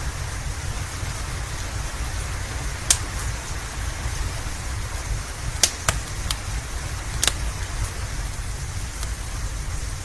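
Steady rain mixed with a crackling wood fire: a few sharp, scattered pops of burning wood, about five of them, over an even hiss of rain and a low steady rumble.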